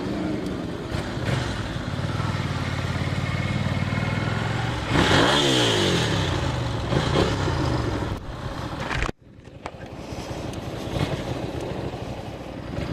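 Motorcycle engine running steadily, then a loud passage about five seconds in where its pitch sweeps down and up, like a rev or a bike going by. The sound cuts off abruptly near nine seconds and comes back as a quieter engine with wind noise.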